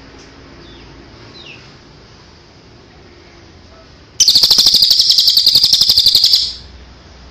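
Songbird calling: a few faint short falling chirps, then about four seconds in a loud, rapid trill of roughly fifteen notes a second that lasts about two seconds and cuts off.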